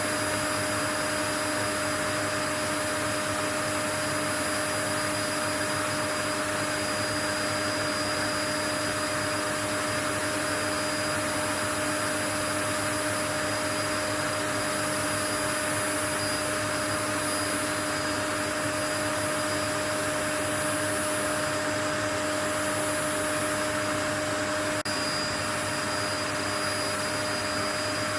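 Steady white noise: an even, unchanging rushing hiss with a constant hum running under it, with a brief slight dip near the end.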